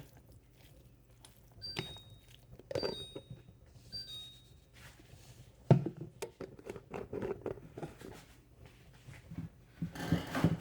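Kitchen handling sounds while seasoning food: scattered light clicks, clinks and knocks of containers and utensils, with one sharper knock about six seconds in.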